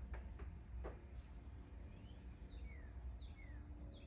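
A songbird singing: repeated high whistled notes that slide downward, each followed by a shorter, lower downslurred note, coming roughly once a second. A few faint clicks in the first second, over a steady low hum.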